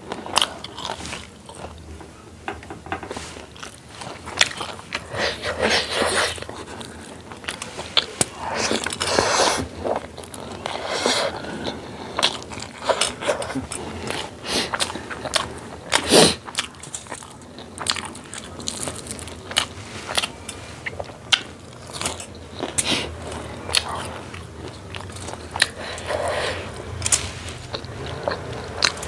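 Close-up eating sounds: chewing with many sharp, irregular crunches and bites of the food in a Nepali dal bhat meal.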